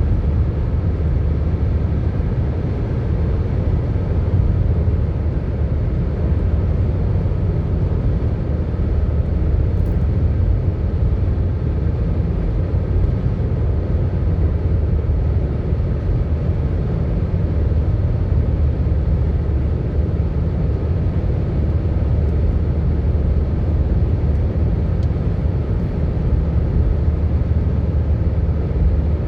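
Steady road and engine noise of a moving car, heard from inside the cabin, an even low rumble with no breaks.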